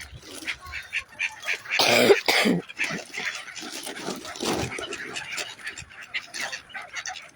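A crowd of feeding waterbirds (geese, ducks, swans and gulls) calling in a jumble of short calls, with a louder harsh burst about two seconds in and another near the middle.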